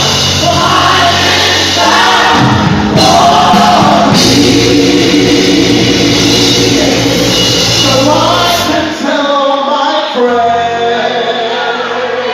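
Live gospel worship music: singers and a backing choir over a full band with bass. About nine seconds in, the bass drops out briefly and the band thins, leaving the voices more exposed.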